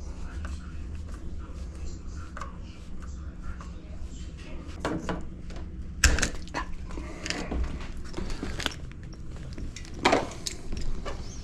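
Door lock hardware being taken off and handled: scattered sharp clicks and knocks over a low rumble, the loudest about six seconds in and another near the end.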